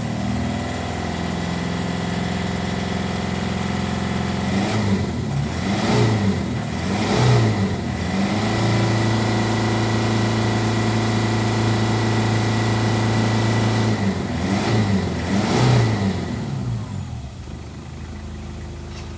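Toyota Hilux 3.0-litre engine running, revved up and held at raised revs, with several quick throttle blips in two groups that rise and fall in pitch, then dropping back to idle near the end.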